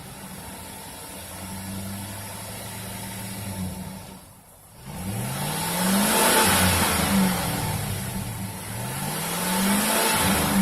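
2006 Chevrolet Silverado's 5.3-litre V8 running through its stock exhaust: it holds a steady, slightly raised speed, drops back about four seconds in, then is revved twice, each rev rising in pitch and falling back.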